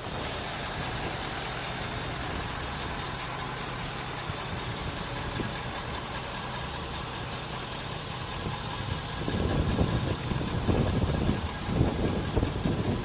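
Pickup truck engine idling steadily. From about nine seconds in, irregular low rumbling gusts join in and are louder than the engine.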